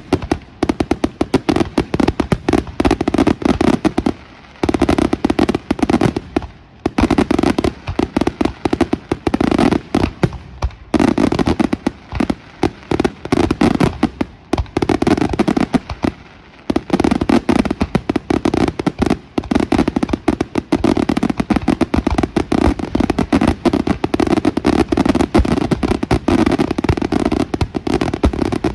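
Professional fireworks display in a dense barrage: aerial shells and salvos going off in rapid succession, many loud bangs a second, broken by a few short lulls.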